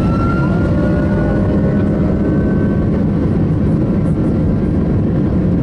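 Boeing 757-200's jet engines heard from inside the cabin: a loud, steady rumble with a faint whine slowly rising in pitch.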